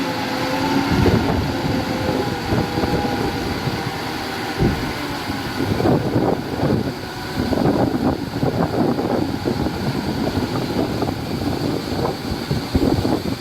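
Heavy earthmoving machinery at work: an engine note that fades in the first couple of seconds, then irregular rumbling and clattering.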